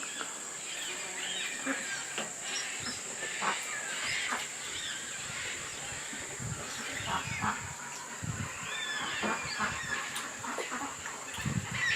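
Many birds calling in short chirps and whistles over a steady high-pitched insect drone, with a few low thuds in the middle and near the end.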